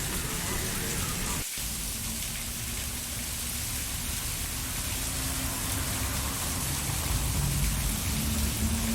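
Steady rain falling, an even hiss of drops, with a brief break about a second and a half in. A faint low steady tone comes in after the break and grows near the end.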